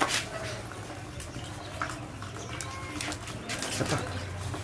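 Faint bird calls over a low steady hum, with short scuffing noises right at the start and again about three and a half seconds in.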